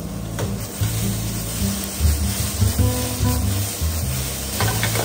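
Okra sizzling in hot oil in a frying pan as it is stir-fried and tossed, with a few clicks near the end, under background music.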